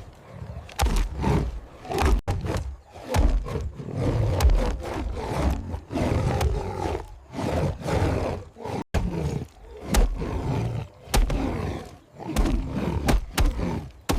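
Big-cat roars and growls in a run of short loud bursts, some with sharp knocks or crashes at their starts, separated by brief gaps.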